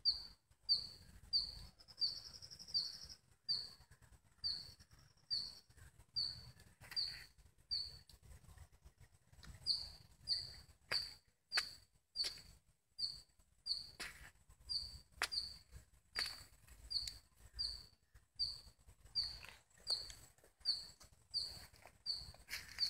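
A bird's short, high chirp repeated evenly, about one and a half times a second, with a few faint clicks midway.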